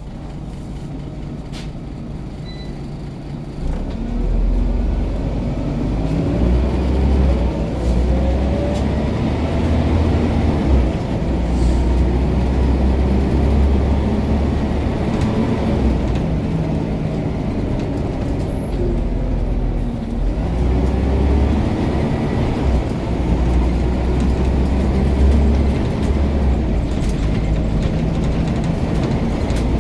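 Scania OmniCity single-decker bus's diesel engine pulling away about four seconds in. Its pitch rises as the bus accelerates, drops briefly around twenty seconds as it changes gear, and then climbs again.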